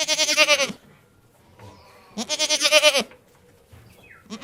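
A goat bleating twice, each a quavering call under a second long, the second coming about two seconds after the first.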